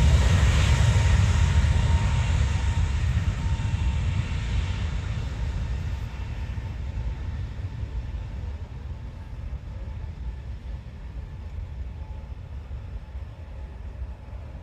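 Airbus A320neo's jet engines rumbling after takeoff, the sound fading steadily as the aircraft climbs away.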